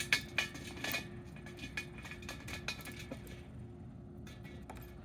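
Small parts clinking and clicking against a distiller pot as a valve, gasket and back piece are fitted into the pot's hole. A cluster of sharp clicks comes in the first second, then lighter scattered ones.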